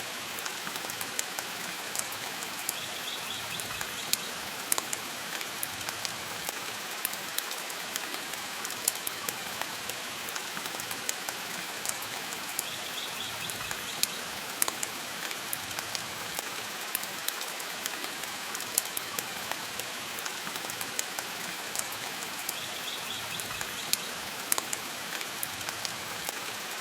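Steady rain hissing, with frequent sharp crackles and pops from a wood fire in a fireplace.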